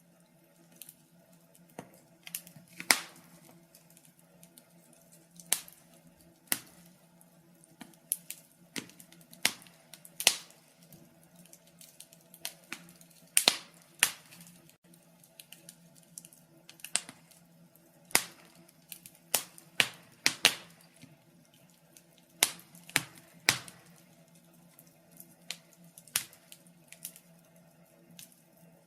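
Wood fire crackling: irregular sharp pops and snaps, sometimes several in quick succession, a few louder than the rest, over a faint steady hum.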